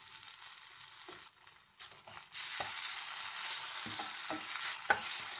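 Onion-tomato masala sizzling in oil in a nonstick pan on a low flame. The sizzle is faint at first and grows louder about two seconds in as a spatula starts stirring, with several short scrapes and knocks of the spatula against the pan.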